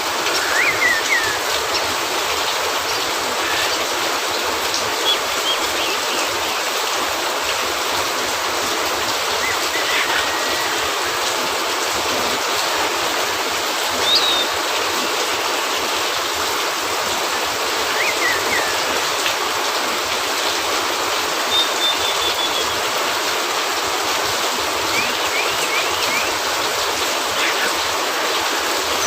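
Steady heavy rain hissing on a cabin roof, mixed with the light pop and crackle of a wood fire. A few faint short high chirps come through now and then.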